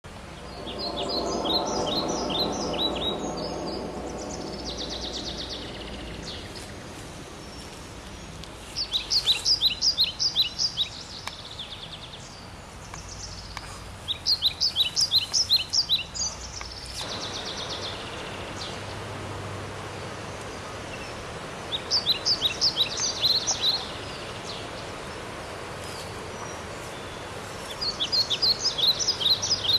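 A bird singing short bursts of rapid, high, falling notes, each lasting about two seconds and repeated every five or six seconds, over steady outdoor background noise. A louder, lower-pitched sound fills the first few seconds.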